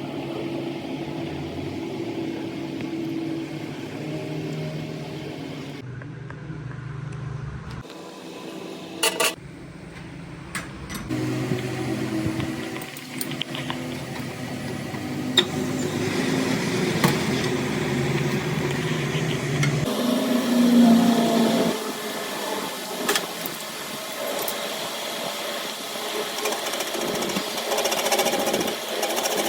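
Metalworking at a repair bench: a small machine running, with rubbing and scraping on metal and a few sharp knocks.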